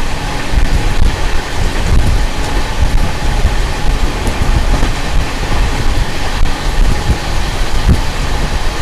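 Express passenger train running along the track, heard from aboard a coach: a loud, uneven rumble of wheels on rails with rushing noise.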